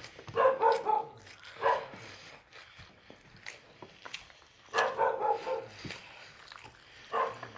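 A dog barking and whining in short, high yelps, in quick clusters: several about half a second in, one near two seconds, a run around five seconds and one near the end.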